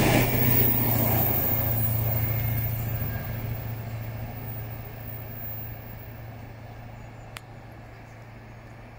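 A train rolling away, its rumble and low steady hum fading over several seconds. A single sharp click comes near the end.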